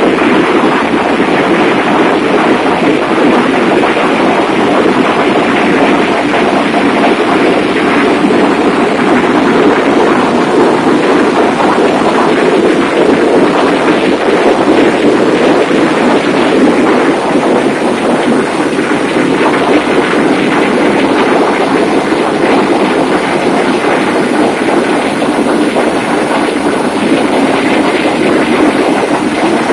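Loud, steady din of a ship's engine-room machinery running, an even roar with no distinct rhythm or tone.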